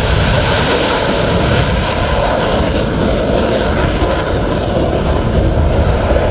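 Blue Angels F/A-18 Super Hornet jet engines, a loud, steady roar across low and high pitches, with a rougher crackling patch about two seconds in.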